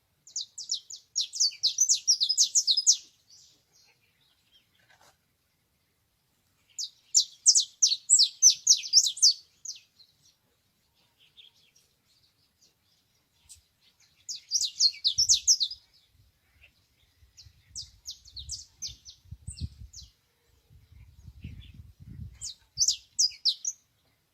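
Canary singing in four separate phrases of fast, rapidly repeated high notes, with pauses of a few seconds between them. Faint low rumbling runs underneath the later phrases.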